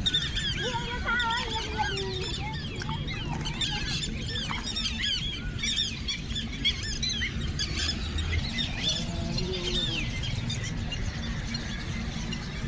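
A flock of birds calling, many short high calls overlapping one another, over a low steady rumble.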